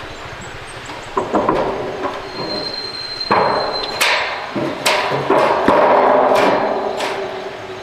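Iron frame pieces being struck and knocked together: a string of irregular metallic clanks, about nine over the few seconds, each ringing on briefly.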